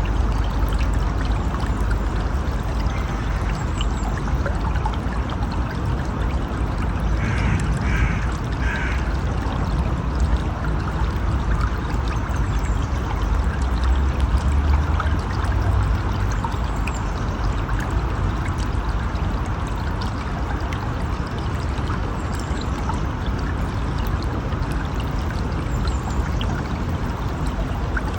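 River water rushing steadily, a dense, even rush with a strong low rumble. Three short high chirps sound about a quarter of the way in.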